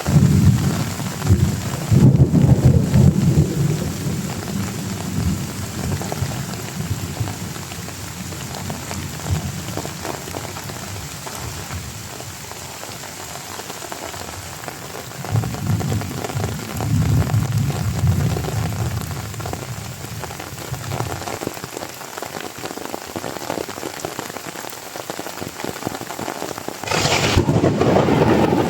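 Heavy rain falling steadily, with low rolling thunder twice, at the start and again in the middle, and a louder, sharper crash of thunder near the end.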